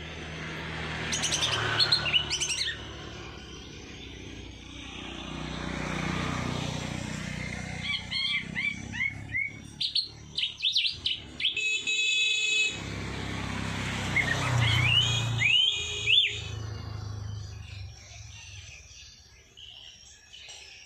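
Songbirds chirping and calling in quick bursts of short rising and falling notes, with one harsher, buzzy call in the middle, over a low steady background rumble.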